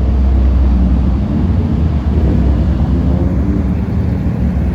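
Steady low rumble of car engines as cars roll past, loudest in the first second or so.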